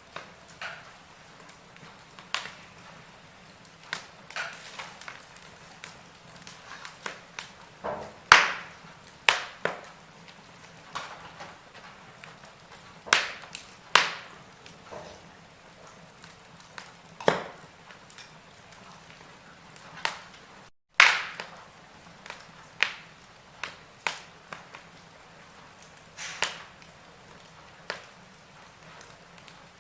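Wood fire crackling in a fireplace: irregular sharp pops and snaps over a soft steady hiss, the loudest snaps about 8, 14 and 21 seconds in.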